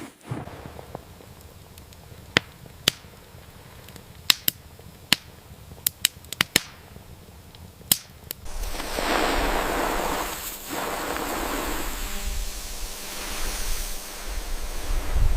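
Scattered sharp clicks and pops, a dozen or so over about eight seconds, then a steady rushing noise for the rest.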